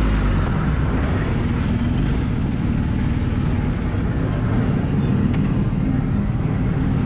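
Vehicle engine running steadily amid road traffic noise.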